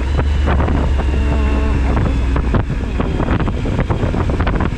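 Suzuki V-Strom 1000XT's V-twin engine running steadily under way, with wind buffeting the helmet-mounted microphone.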